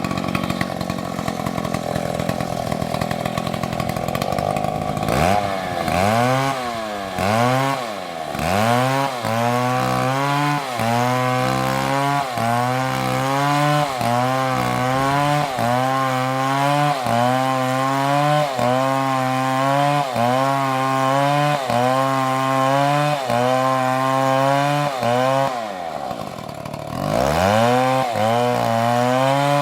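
Chainsaw engine running at high revs, held steady for the first few seconds. From about five seconds in, its pitch dips and recovers about once a second, the engine speed sagging and picking up again over and over as it works, with one longer drop and climb near the end.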